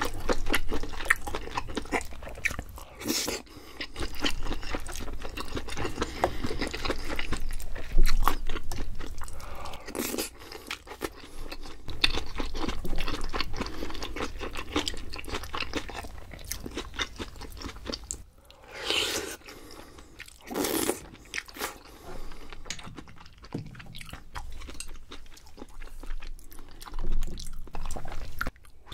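Close-miked chewing and biting of a meal, dense with small wet, crunchy mouth clicks, with a few louder, longer eating sounds spread through.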